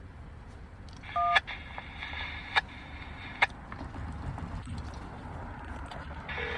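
Railroad radio scanner with no voice traffic: a short touch-tone (DTMF) beep of two pitches together about a second in, then a couple of seconds of open-channel hiss broken by sharp clicks as a transmitter keys and unkeys. A second short tone and a click come near the end, over a steady low rumble.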